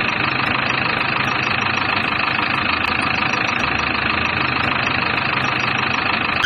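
JCB backhoe loader's engine running at a steady, unchanging pitch as it drives along.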